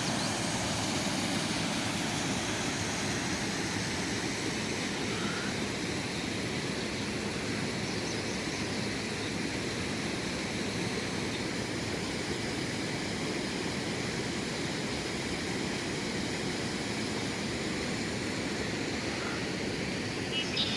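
Steady rushing of river water at a waterfall, an even noise that does not change, with a couple of faint high chirps.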